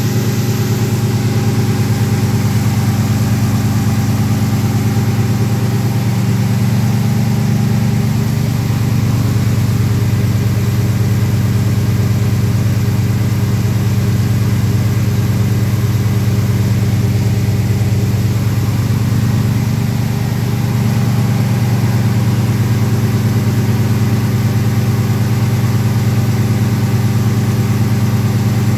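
1984 Oldsmobile Delta 88's engine idling steadily, spinning four belt-driven alternators on a custom bracket.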